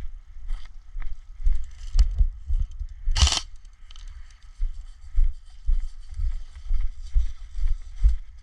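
Footsteps of a player walking outdoors, heard as low thuds about twice a second, with one loud brief burst of noise about three seconds in.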